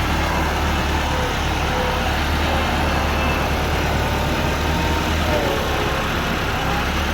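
Diesel engine of heavy loading machinery running at a steady speed.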